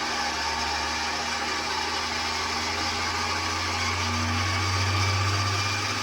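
Wood lathe running, spinning a wooden baseball bat blank, with an even whirring noise and a low hum that grows louder about four to five seconds in.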